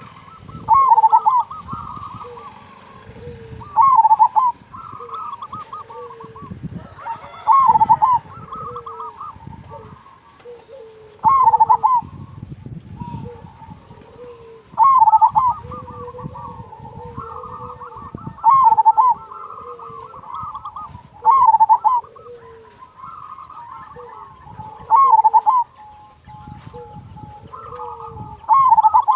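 Zebra dove (perkutut) cooing: a loud, rhythmic cooing phrase repeated about every three and a half seconds, with softer, lower coos from another dove in between.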